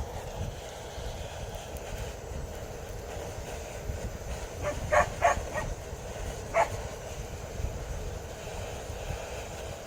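A dog barking: a quick run of about four barks around the middle and a single bark a second later, over a steady low rumble.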